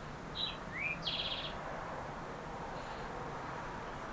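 A small bird chirping: a couple of short high notes, one rising, then a quick trill, all in the first second and a half, over steady outdoor background noise.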